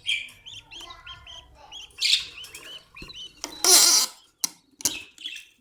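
Caged budgerigars chirping: many short, quick chirps, with a loud rustling burst about three and a half seconds in and a few sharp knocks after it.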